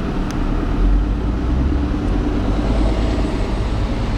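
A car driving in city traffic: a steady low road-and-engine rumble with a faint hum, and one sharp click about a third of a second in.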